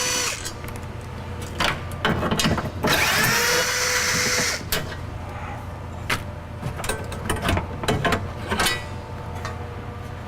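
Cordless power drill/driver spinning, in two short runs of a couple of seconds each with a whine that rises and then holds steady, used to remove a fastener inside the door. Scattered clicks and knocks of parts and tools being handled follow.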